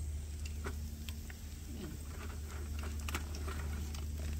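Breakfast hash frying in a cast iron skillet on a portable butane camp stove, with scattered clicks and scrapes of a plastic spoon stirring it, over a steady low hum.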